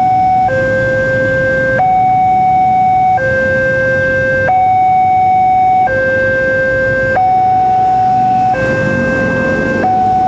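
Electronic two-tone warning alarm of a railway level crossing, alternating steadily between a higher and a lower tone about every 1.3 seconds, signalling that a train is approaching and the barrier is down. A low rumble of road traffic runs underneath.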